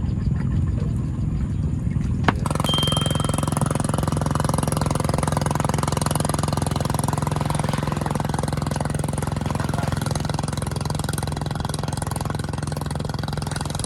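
An engine running steadily. About two seconds in, after a sharp click, it settles into a denser, even drone with a constant low hum.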